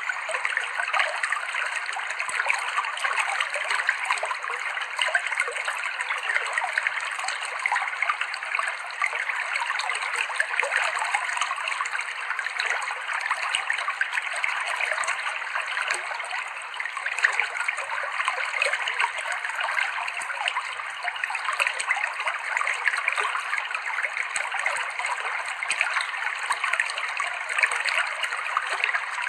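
Clear, shallow river water flowing and trickling over rocks: a steady babbling rush.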